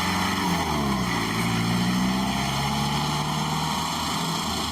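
A motor vehicle's engine running, its pitch dropping about a second in and then holding steady.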